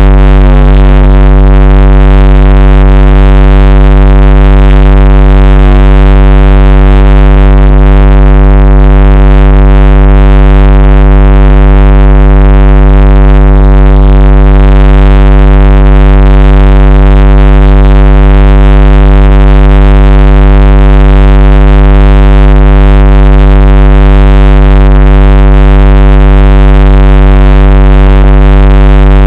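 A very loud, unchanging low droning tone with many overtones, electronic-sounding like a held synthesizer note.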